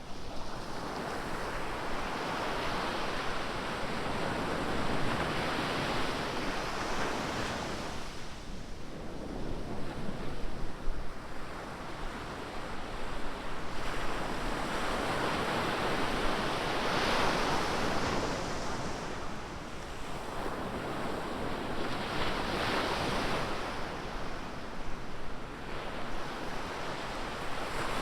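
Ocean surf: waves breaking and washing onto the beach one after another, the rush swelling and easing every few seconds.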